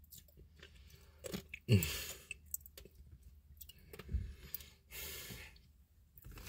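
Mouth sounds of someone drinking a cherry slushy with Nerds candy: sips through a straw and chewing of the icy slush and candy, in scattered short bursts. A brief hummed "mm" comes about two seconds in.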